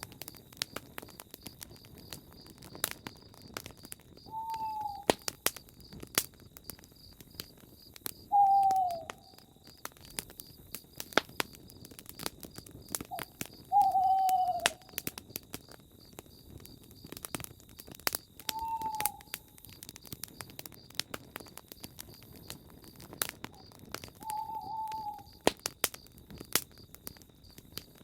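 Campfire crackling with frequent sharp pops, while a bird's short falling call repeats six times, about every four to five seconds. A steady high insect chirring runs underneath.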